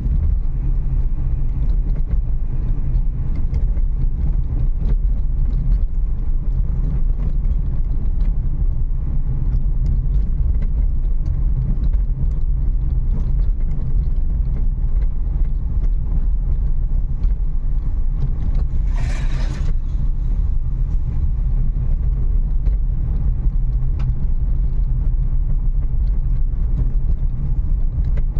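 Steady low rumble of a Renault Kiger driving slowly over a rough, potholed forest road, heard from inside the cabin with the windows open, with many small knocks and rattles from the bumps. A brief hiss comes about two-thirds of the way through.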